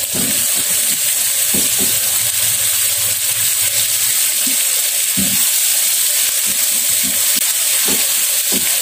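Ground chili and onion spice paste sizzling steadily in hot oil in a frying pan, with the scrape and occasional tap of a spatula stirring it.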